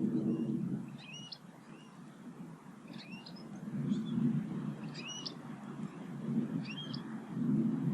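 A small garden bird repeating the same short call phrase about every one and a half to two seconds, each with a quick rising note. A low rumble swells and fades underneath.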